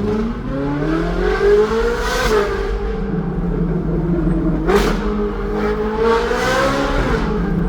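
Ferrari 458's 4.5-litre V8 through a Secret Weapon aftermarket exhaust, very loud under hard acceleration: the revs climb for about two seconds, a sharp crack sounds near five seconds, the revs climb again, then fall away near the end.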